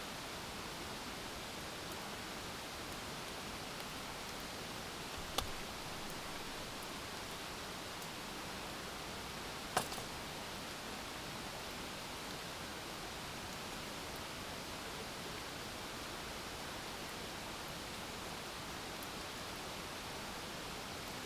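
Steady, even hiss of rain and flowing water, with two sharp clicks about five and ten seconds in.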